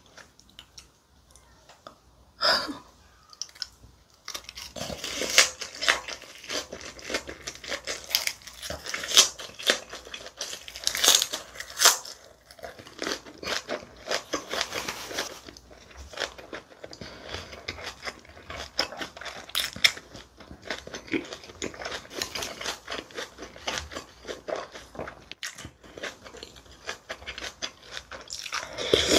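Close-miked chewing of a napa cabbage wrap with pork: crisp cabbage crunching and wet mouth sounds. It starts a few seconds in and continues in a dense, steady run of small crunches.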